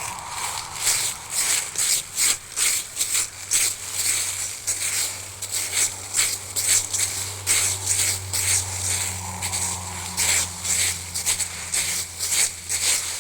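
Footsteps crunching on the forest floor, about two steps a second, with a low steady hum underneath.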